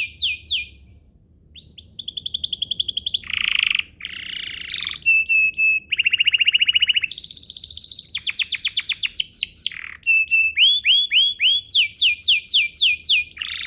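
Domestic canary singing a long song of rapid trills, each a fast run of repeated sweeping notes that changes to a new phrase every second or so, with a short pause about a second in.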